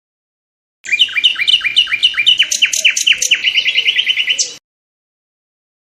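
A songbird singing one phrase of rapidly repeated, falling notes, about four a second at first and then roughly twice as fast, ending on a single higher note. The phrase starts and cuts off abruptly.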